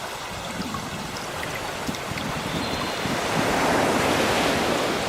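Sea waves washing on the shore: a steady hiss of surf that swells to a peak about three and a half seconds in as a wave breaks, then eases off.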